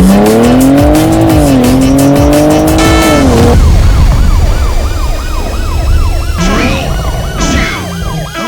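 A performance car's engine pulling hard under full acceleration, its pitch climbing with a brief drop about a second in at a gear change, then cutting off about three and a half seconds in. After that a warbling tone sweeps up and down about three times a second over steady engine and road noise.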